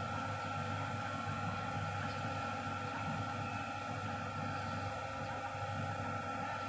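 Sany excavator's diesel engine running steadily, a low drone with a steady high whine above it.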